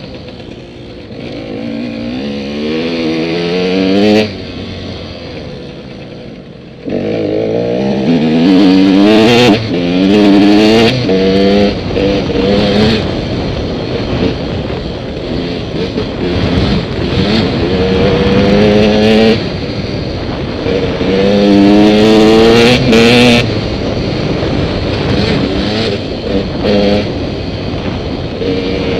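Dirt bike engines accelerating hard, the pitch climbing again and again as they rev up and shift through the gears, with a sudden jump in loudness about seven seconds in.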